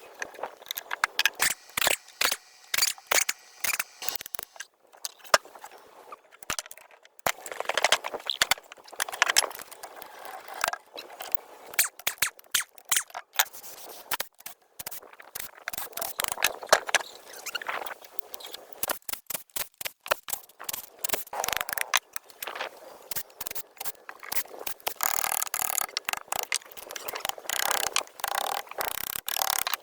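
Restoration work on old truck parts: a stream of irregular clicks, taps and scraping, with denser scraping spells now and then.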